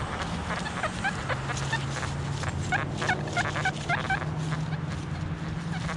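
Birds calling in many short, quick chirps over a steady low hum.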